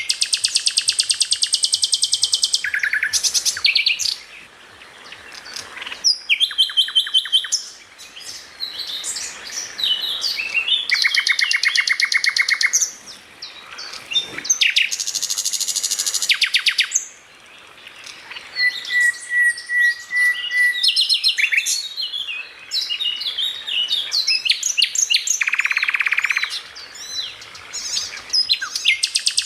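Songbird singing a varied, fast song: long rapid rattling trills, quick chirps and sweeping whistled notes, with a short, even, lower trill about two-thirds of the way through.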